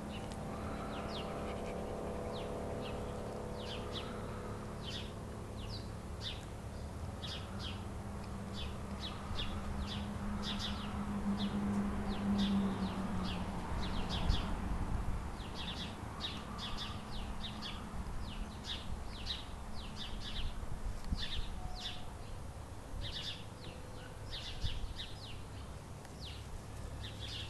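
Small birds chirping, many short high chirps scattered irregularly throughout, over a low steady hum.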